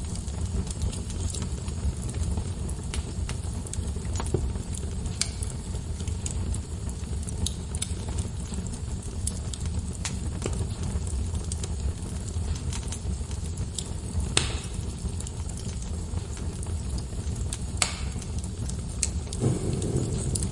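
Wood fire crackling in a fireplace: irregular sharp pops and snaps over a steady low rumble of flame, with a couple of louder pops in the second half.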